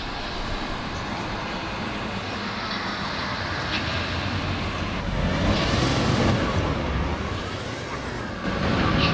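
Motor vehicle running, a steady engine and road noise, with the engine pitch rising and falling a few times past the middle.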